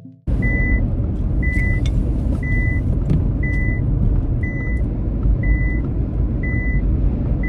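Nissan Magnite's seatbelt reminder beeping, a short high beep about once a second, warning that the driver's safety belt is not fastened. Under it runs the steady road and engine noise inside the cabin of the moving car.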